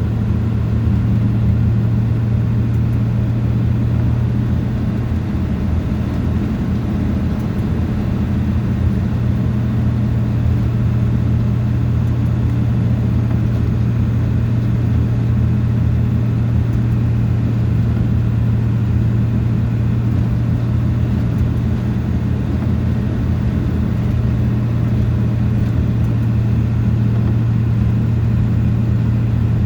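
A vehicle being driven at a steady speed: a constant low drone of engine and road noise that holds even throughout.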